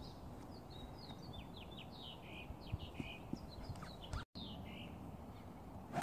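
Birds chirping in the trees, a run of short falling notes over a quiet outdoor hush. Right at the end comes the sharp crack of a driver striking a golf ball off the tee, the loudest sound.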